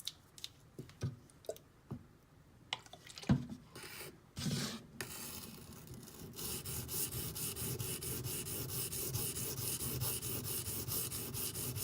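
D2 steel blade of a Benchmade Griptilian being ground on a silicon carbide benchstone. A few scattered taps and knocks come first, then from about four seconds in a continuous run of quick, even strokes of steel rasping on stone. The blade is being ground at one spot near the choil under only the weight of the hand.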